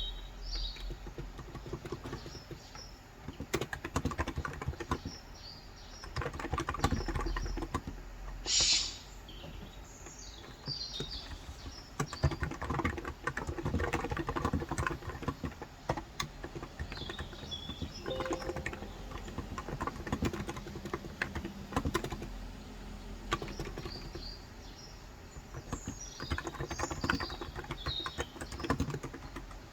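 Typing on a Cox Endeavor electro-capacitive (Topre-style) 35 g tenkeyless keyboard: keys clacking in quick, irregular runs with short pauses. Birds chirp now and then in the background, and a brief, louder high-pitched sound comes about eight seconds in.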